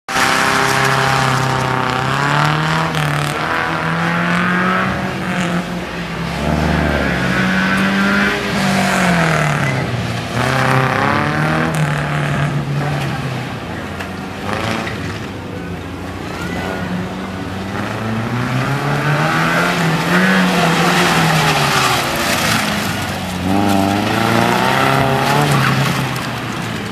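Datsun 140Y (B310 Sunny) with its 1.4-litre A14 four-cylinder engine, revving up and falling back again and again as it is driven hard through tight turns, with tyres squealing.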